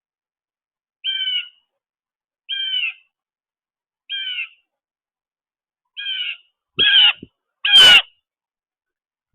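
A bird calling six times at a steady pace, each a short call of about half a second; the last two calls are louder and harsher, with thumps beneath them.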